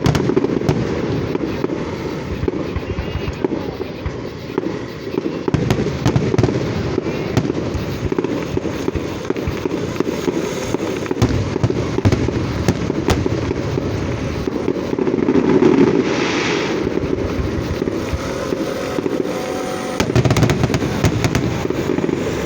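Continuous barrage of aerial fireworks: dense rapid crackling and popping over a steady rumble of bursts, swelling louder about two-thirds of the way through and again near the end.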